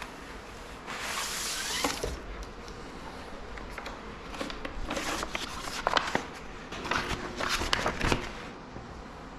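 Rustling and crinkling of handled sheets or packaging, with a short rush of noise about a second in and scattered crackles and taps later on.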